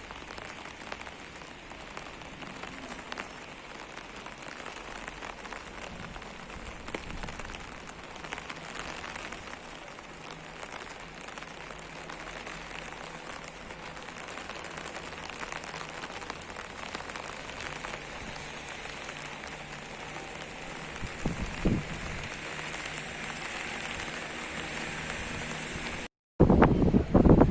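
Steady rain falling, a dense patter of drops. About three-quarters of the way in there is a brief low thump, and near the end the sound cuts off briefly and gives way to a much louder low rumbling noise.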